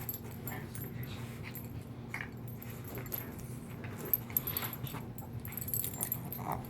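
A dog whining briefly a few times amid scattered light clicks and metallic jingling, over a steady low hum.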